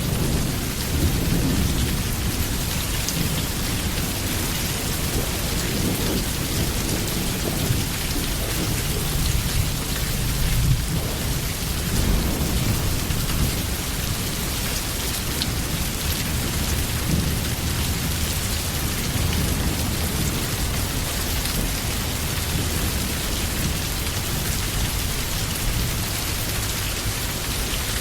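Steady heavy rain with low, rolling thunder that swells now and then.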